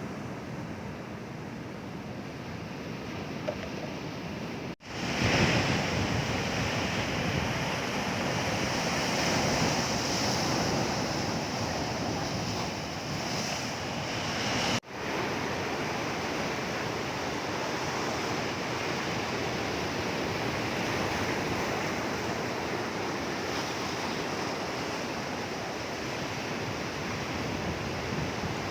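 Sea waves breaking on a shore: a steady rush of surf, swelling loudest about five seconds in, with wind buffeting the microphone. The sound cuts out for an instant twice, about 5 and 15 seconds in.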